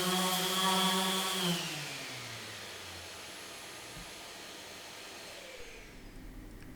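Electric power tool motor running steadily, then switched off about a second and a half in, its pitch falling as it spins down over several seconds.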